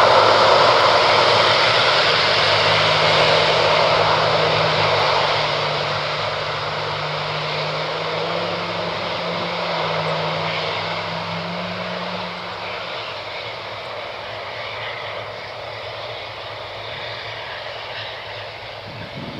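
Rolls-Royce RB211 engines of a Boeing 747-200 freighter, a loud jet noise that fades steadily as the aircraft moves away, with a faint low hum in the middle.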